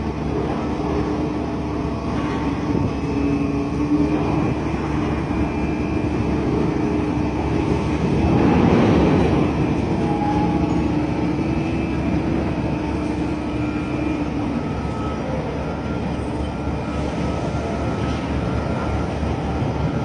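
Steady drone of heavy machinery aboard a cargo ship during cargo discharging, with several humming tones that come and go and a louder swell about eight to ten seconds in.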